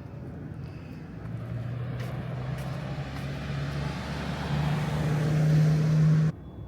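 A motor vehicle's engine running close by as it drives past, its note climbing and growing louder over road noise, then cutting off suddenly.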